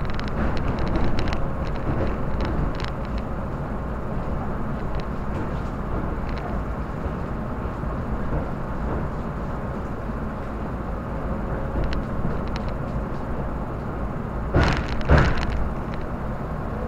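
Tobu commuter electric train running, heard from inside the carriage: a steady rumble of wheels on the rails with scattered light clicks, and a few louder knocks near the end.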